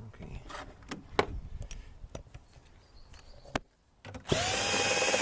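A few sharp clicks and knocks of tools and parts being handled. Near the end comes a power drill, which spins up quickly and runs at a steady whine for about a second while backing out a bolt.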